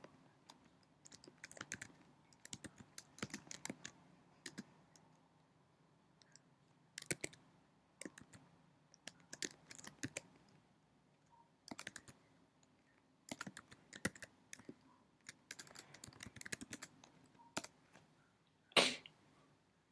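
Computer keyboard typing in short bursts of quick key clicks with pauses between, as code is entered. Near the end there is one louder, short noise.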